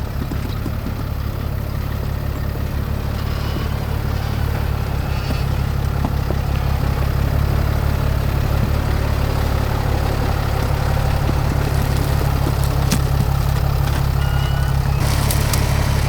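Truck engine running steadily with a deep, even drone, slowly getting louder, with a few sharp cracks near the end.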